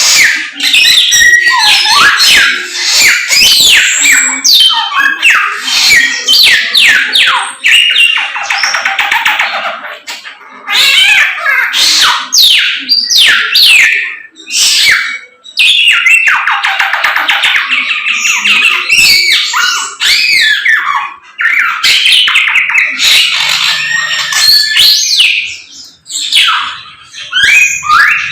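A Samyong songbird singing loudly in full, vigorous song: rapid runs of whistled notes sliding up and down, mixed with harsher chattering phrases, with brief pauses between bursts.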